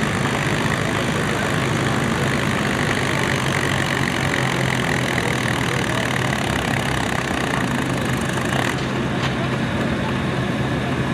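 Antique farm tractor engine running steadily under load, pulling the weight sled down the track. Its noise thins out about three-quarters of the way through.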